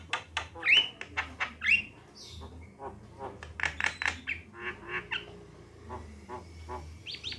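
Javan myna (jalak kebo) chattering: a rapid string of harsh, clicking notes with two short falling whistles about a second in, then more harsh squawks.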